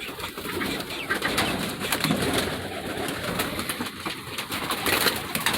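A flock of birds inside a coop, many calling over one another at once, with scattered sharp taps and clicks among the calls.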